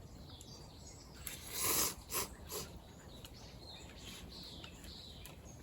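Faint bird chirps over steady outdoor background noise, broken about a second and a half in by a loud short burst of noise and then two shorter ones.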